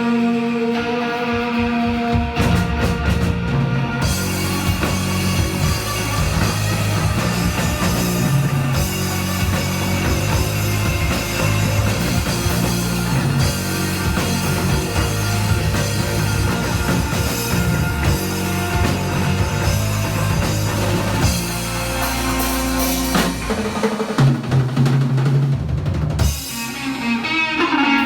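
Live rock band playing an instrumental section with drum kit, bass and guitars, without vocals; near the end the drums drop out, leaving guitar.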